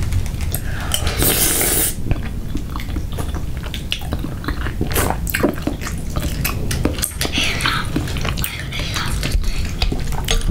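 Close-miked chewing and biting of food, with many small wet clicks and crackles, and spoons tapping and scraping in a glass bowl.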